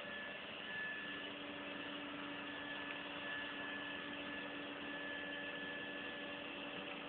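Henry vacuum cleaner running steadily: an even hiss with a low hum.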